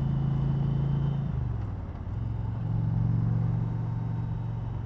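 A 2020 Indian Challenger Limited's liquid-cooled V-twin engine running steadily at highway speed. About a second and a half in, the engine note falls and drops in level, then picks up again and holds steady from about two and a half seconds.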